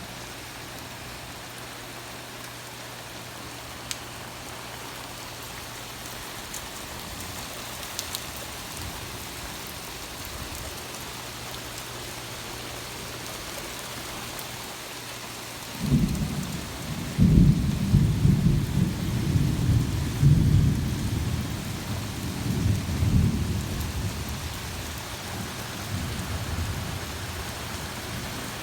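Heavy rain falling steadily. About halfway through, a loud thunderclap breaks out and rolls on in low rumbles for several seconds before fading.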